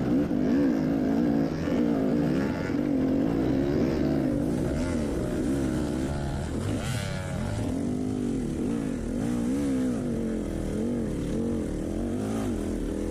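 Dirt bike engine revving up and down under load as it climbs a hill, its pitch rising and falling over and over as the throttle is worked.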